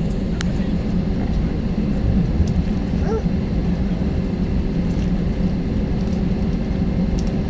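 Steady low rumble and hum inside a jet airliner's cabin, with the engines and air system running on the ground shortly before takeoff. A faint click about half a second in.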